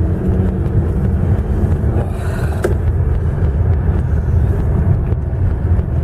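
Car driving at low speed, its engine and tyre rumble heard from inside the cabin as a steady low drone.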